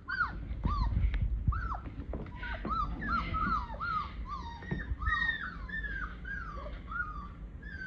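Three-week-old Caucasian Shepherd puppies whimpering: a steady string of short, high whines, each rising and then falling in pitch, about two a second, with a few low bumps underneath.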